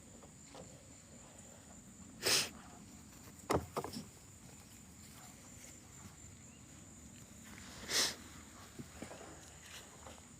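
A steady high-pitched insect drone, with two short rustling bursts a few seconds apart and a quick cluster of knocks in between.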